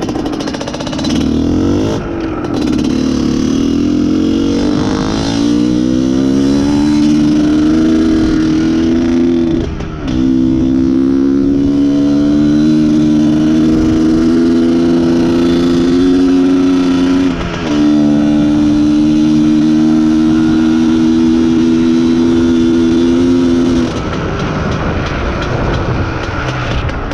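IZh Planeta Sport single-cylinder two-stroke motorcycle engine accelerating under way, revs climbing in each gear with short breaks at the gear changes about 2, 10 and 17 seconds in, then the throttle closing near the end. The owner blames a lean fuel mixture for the engine no longer pulling properly.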